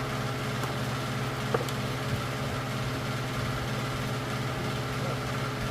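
A steady mechanical hum running on without change, with one faint click about a second and a half in.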